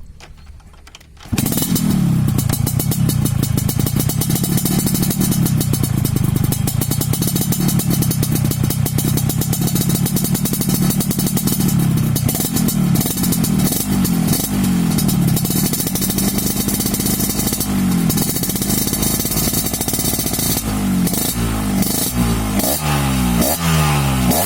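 Yamaha RX-King two-stroke single-cylinder motorcycle engine fitted with a stainless racing exhaust, starting suddenly about a second in and then idling with a wavering, uneven pitch. Near the end it is revved in several quick throttle blips, each rising and falling, through the exhaust's crisp, loud note.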